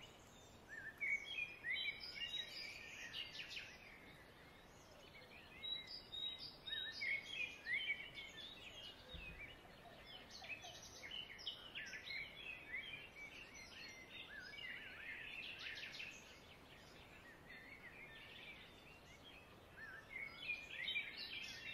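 Faint small birds chirping in scattered bursts of short gliding calls, quieter for a stretch about four seconds in and again near the end.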